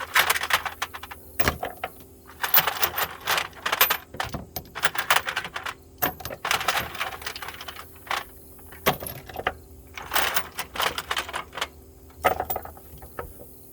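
Steel ratchet sockets clinking and clattering against each other as they are handled and set down, in irregular clusters of sharp metallic clicks.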